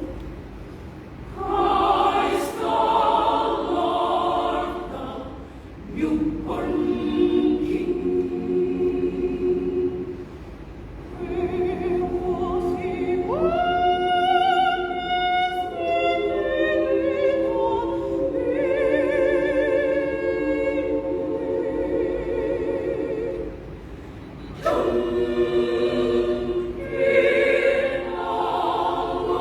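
Women's choir singing a cappella in sustained chords, phrase by phrase with short breaths between, and a high voice rising above the choir partway through.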